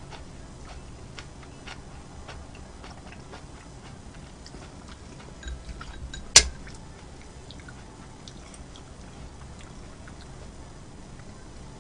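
Close-miked eating sounds: chewing with many small wet clicks, and one sharp loud knock about six and a half seconds in.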